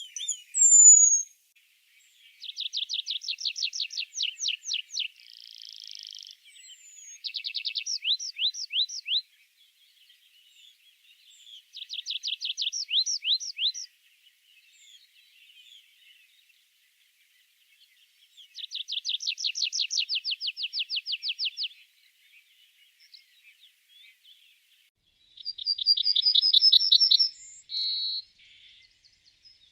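A songbird singing in May woodland: a fast trill of repeated high notes lasting two to three seconds, given about five times with pauses of several seconds between songs.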